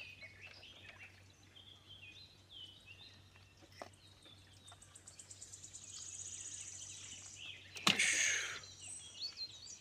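Small birds chirping in short high notes, with a fast high-pitched trill in the middle. About eight seconds in there is a sharp knock followed by a short rush of noise.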